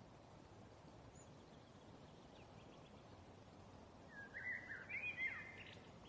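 A songbird singing a short, quick phrase of chirps and slurred notes about four seconds in, with fainter chirps a little before it, over a steady background hiss.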